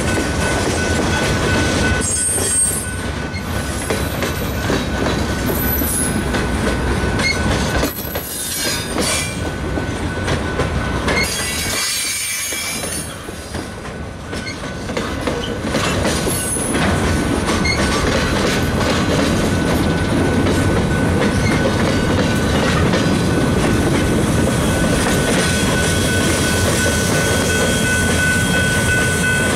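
Freight train of open-top hopper and gondola cars rolling past on the rails, with steady rumbling and clacking wheels. A steady high-pitched wheel squeal runs under it, with brief sharper squeals in the first ten seconds.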